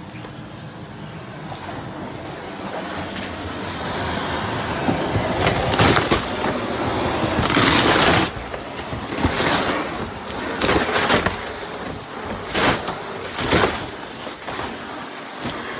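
Water rushing and spraying from a broken incoming water service pipe. It grows louder over the first several seconds, then comes in irregular loud surges.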